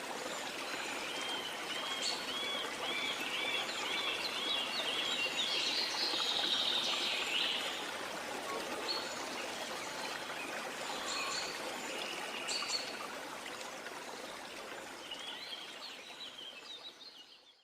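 Rainforest ambience: a steady rush of water with birds calling over it. A bird repeats a quick series of short arched notes early on, louder calls come through the middle, and scattered chirps follow. The whole soundscape fades out near the end.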